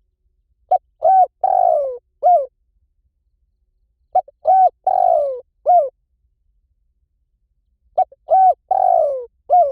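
Spotted dove cooing: the same phrase three times, about every three and a half seconds. Each phrase is a short note, two quick hooted coos, a longer falling coo and a final coo.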